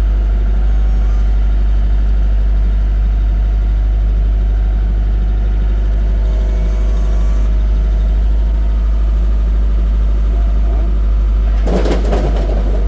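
Engine idling steadily with a low, even hum, and a brief noisy clatter about twelve seconds in.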